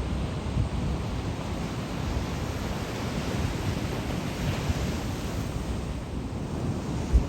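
Ocean surf breaking and washing on the beach, with wind buffeting the microphone in gusts; a brief low buffet comes just before the end.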